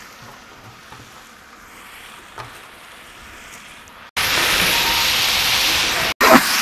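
Faint steady hiss, then about four seconds in a loud, steady sizzle of onions, tomatoes, green chillies and herbs frying in coconut oil in a large pot. The sizzle cuts off suddenly about two seconds later.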